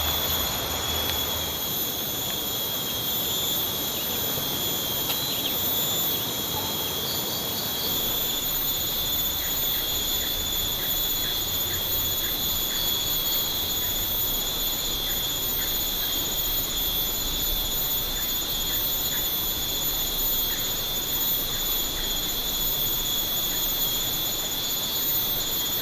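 Steady high-pitched insect chorus in rainforest, a continuous shrill drone over a steady hiss, with small chirps scattered through the middle.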